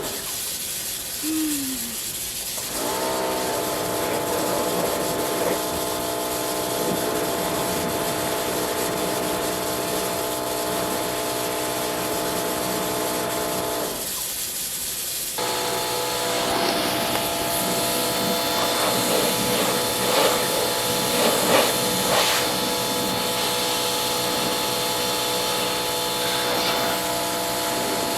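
Pressure washer pump motor spinning up with a rising whine, then running steadily with the hiss of the water jet. It cuts out for a second or two about halfway through, then starts up again.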